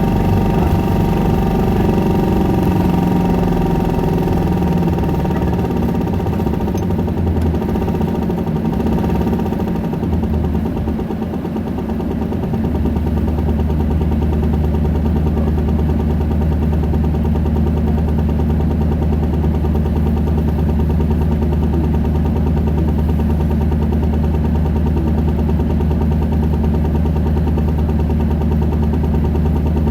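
Isuzu Erga 2KG-LV290N2 city bus's four-cylinder diesel heard from inside the bus: the engine note falls away as the bus slows, then from about twelve seconds in it settles into a steady idle.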